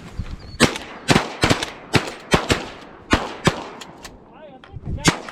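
A volley of shotgun fire from several hunters shooting at once: about ten sharp shots, overlapping and in quick succession for the first three seconds or so, then a last shot near the end.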